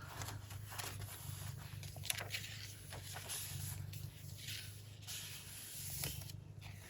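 Domestic cat purring steadily as a low continuous rumble, with soft rustles and crackles of paper pages being handled.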